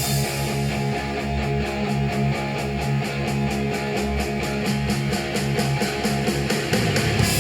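Rock music with guitar and a fast steady beat, played back through a small desktop studio monitor speaker and picked up by microphone.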